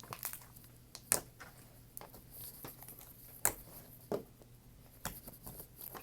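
Slime being worked by hand, giving irregular sticky clicks, crackles and pops, with a few sharper pops about a second in and around three and a half and four seconds.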